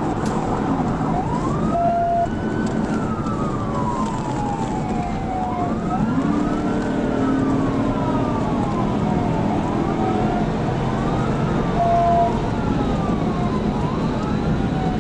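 Police cruiser siren wailing, each cycle rising quickly and sliding slowly back down, over steady road and engine noise at high pursuit speed. Two short beeps sound, about two seconds in and again near the end.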